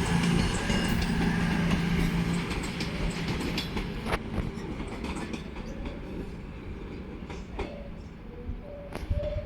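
Train moving past and away, its low running hum and wheel noise fading over the first few seconds, followed by a few sharp clicks as it recedes.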